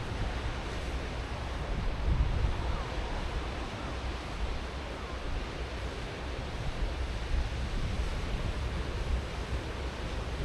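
Ocean waves breaking and washing in a steady continuous surf, with wind gusting against the microphone as a low rumble, strongest about two seconds in.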